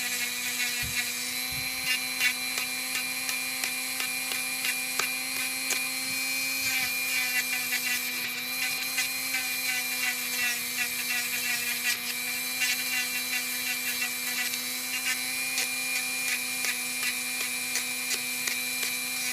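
Dremel rotary craft tool running at a steady high speed, grinding down a dog's toenail, with a scatter of short scratchy clicks as the spinning tip is worked round and round the nail.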